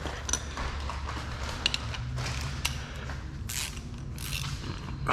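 Hand tools working suspension bolts: a few light metallic clicks and clinks with some rustling scrapes, over a steady low hum.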